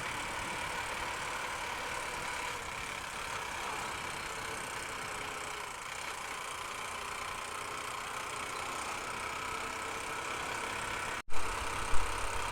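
Honda Unicorn's single-cylinder motorcycle engine running steadily on the move, with road and wind noise. Near the end the sound cuts off abruptly and two loud thumps follow.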